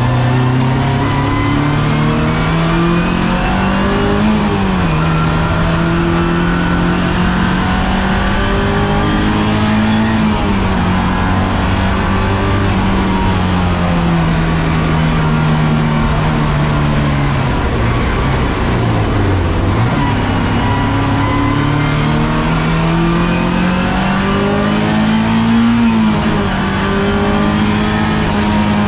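Race car engine heard from inside the caged, stripped cockpit while lapping. The engine note climbs and falls with throttle and gear changes, with sharp drops near the start and near the end, and a long slide down to a low dip about twenty seconds in before it climbs again.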